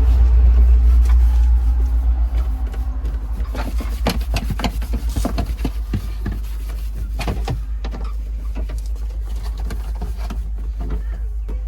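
Heavy machine's diesel engine running with a deep, steady low rumble, with a run of clanks and rattles in the middle.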